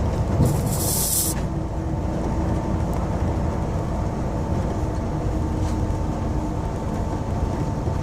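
City bus running on the road, heard inside the passenger cabin: a steady low rumble with a faint steady whine, and a short hiss about half a second in.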